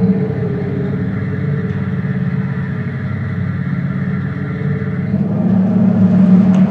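Synthesized V8 engine sound played through a Tesla's external speaker, a steady low idle-like burble that swells louder over the last couple of seconds.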